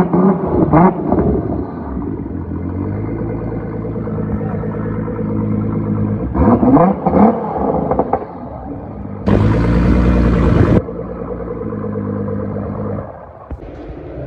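Car engines running, with quick revs rising and falling near the start and again around seven seconds in. A loud rushing noise lasts about a second and a half near the ten-second mark, and the engine sound falls away near the end.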